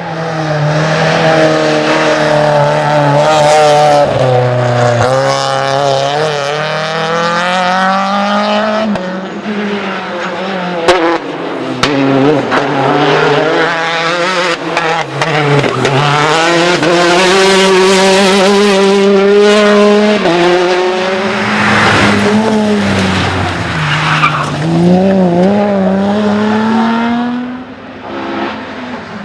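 Rally cars at full throttle, their engines revving up repeatedly and dropping back at each gear change, with tyres skidding.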